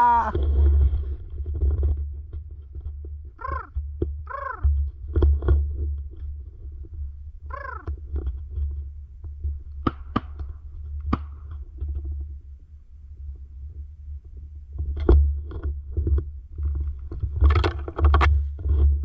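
Steady low rumble with three short, harsh quack-like calls a few seconds in, then scattered sharp clicks and a busier cluster of clicks and calls near the end.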